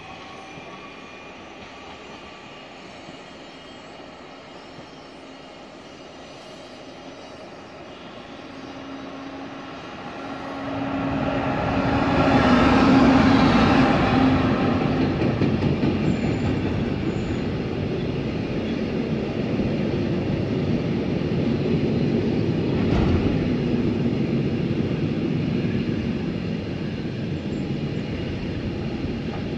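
Class 193 Siemens Vectron electric locomotive approaching and passing at speed, its hum rising to a peak about twelve seconds in. Then the long steady rolling noise of the double-deck car-transporter wagons running past, with a single knock about twenty-three seconds in.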